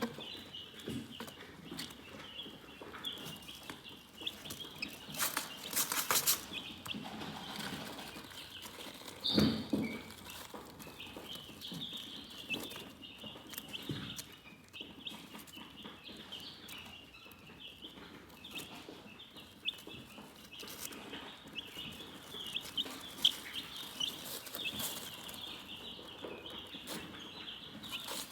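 Chickens chirping continuously, a dense run of short high chirps. A brief rustling burst comes about six seconds in and a louder low thump near ten seconds.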